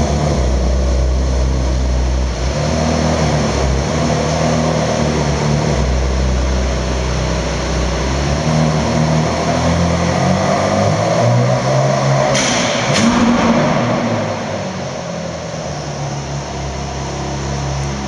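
Ferrari 458 Italia's V8 engine running at low revs as the car creeps along. The engine note rises briefly about twelve seconds in, then drops back and becomes quieter as the car moves away.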